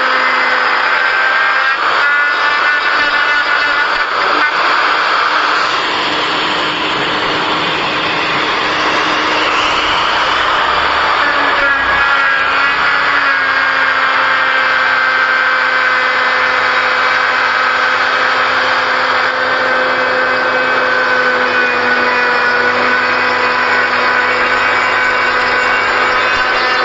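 Electric carving power tool's motor running steadily with a whine whose pitch dips and recovers slightly as it works the wood.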